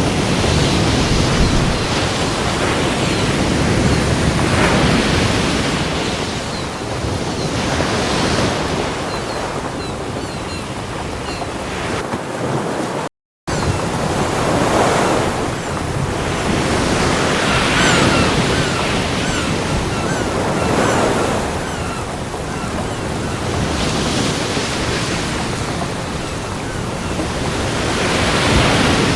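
Ocean surf breaking on a beach: a continuous wash of waves that swells and eases every few seconds. The sound cuts out completely for a fraction of a second about thirteen seconds in.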